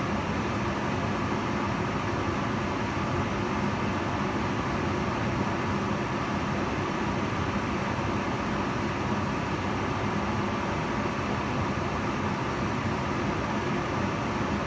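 Kitchen range hood running steadily: an even rush of fan air with a faint motor hum.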